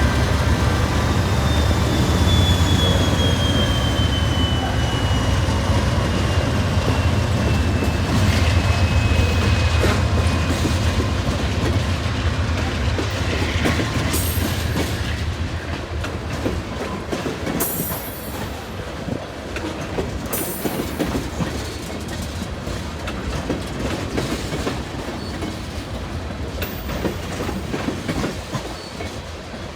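BNSF freight train passing. A low diesel-locomotive engine rumble fades over the first dozen seconds, and a drawn-out wheel squeal slowly falls in pitch. The freight cars then roll by with a steady clickety-clack of wheels over the rail joints.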